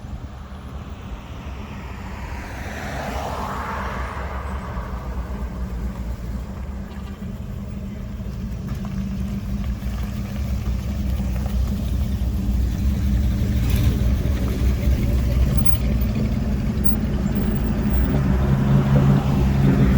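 Car engines running as vehicles drive slowly past, one sweeping by a few seconds in. Another engine's low rumble grows steadily louder as it comes closer near the end.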